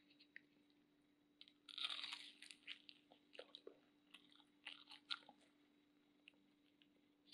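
Someone bites into a crispy deep-fried tahu walik, with a loud crunch about two seconds in, then chews it, the crunches coming in short clusters and thinning out over the next few seconds.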